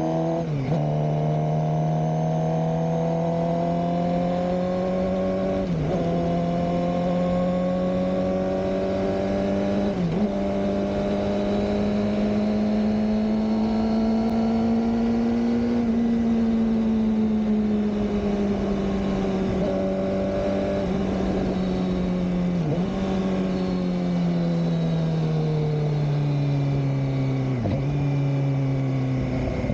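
Suzuki GSX-R600 K7's inline-four engine running under way. Its pitch climbs slowly through the first half and eases down through the second, with brief sharp dips about five times.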